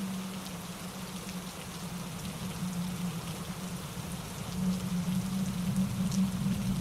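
Rain falling steadily, with many small drops ticking, over a steady low rush of a mountain stream tumbling over rocks. The sound swells a little louder about two thirds of the way in.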